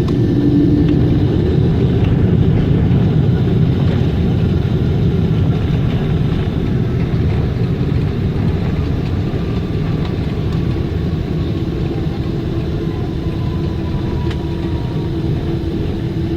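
Boeing 777 cabin noise during the landing rollout: a loud, steady rumble from the engines and the rolling airliner, easing gradually as it slows, with a faint falling whine over the second half as the engines spool down.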